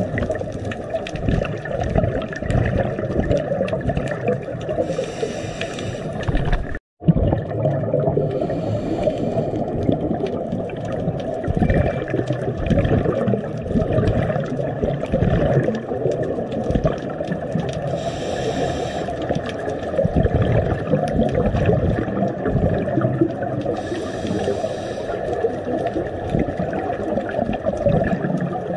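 Underwater recording: a steady low rush of water on the camera housing, with a burst of scuba exhaust bubbles from a diver's regulator about every six seconds as the diver breathes out. The sound drops out briefly about seven seconds in.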